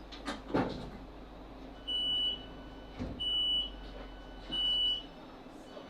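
Three identical high electronic beeps, each about half a second long and about 1.3 s apart, from the door alert of a Class 458 electric multiple unit as it stands at the platform. Two short knocks come before them, over a low rumble.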